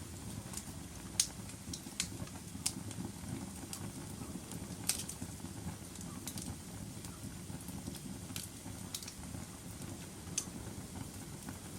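Wood fire burning in a fireplace: irregular sharp crackles and pops, roughly one every second or so, over a steady low rumble of the flames.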